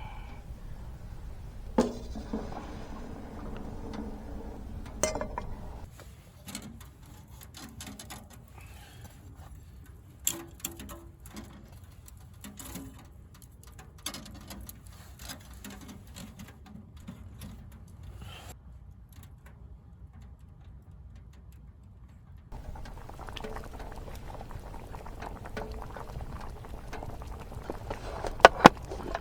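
Oysters cooking on a portable wood stove, their juices bubbling and spitting, with many sharp pops and crackles. The bubbling drops away in the middle and comes back about 22 seconds in.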